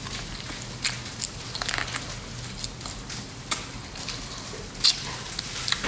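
Close-miked mouth sounds of a person chewing fried chicken: scattered wet smacks and sharp clicks from lips and teeth, a few a second at times.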